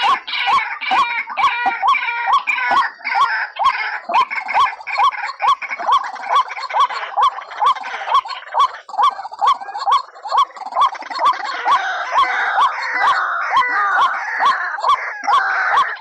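White-breasted waterhens calling: a rapid, rhythmic repeated call, about two to three a second, with more calls chattering over it, as used to lure the birds into traps.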